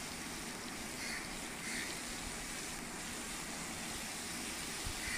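Chopped tomatoes frying in oil on a tawa, a steady sizzle.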